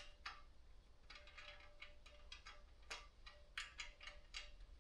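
Faint, irregular metal clicks and ticks of a bicycle seat post and its clamp being fitted and tightened by hand, some in quick little runs.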